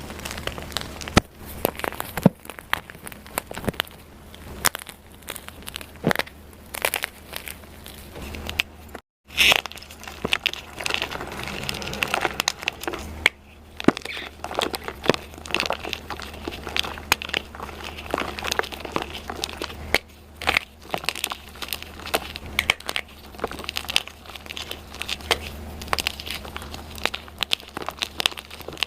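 Crunchy dyed gym chalk being crushed and crumbled: a dense, irregular run of dry crunches and crackles, briefly cut off about a third of the way through.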